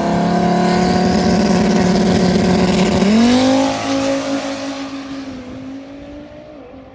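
Drag race car engine at full throttle on a pass down the strip. It holds a steady high note, jumps higher in pitch about three seconds in, then fades as the car pulls away.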